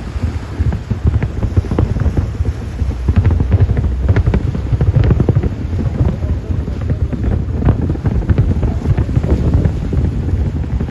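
Wind buffeting the microphone: a loud, gusty low rumble with irregular thumps and crackles.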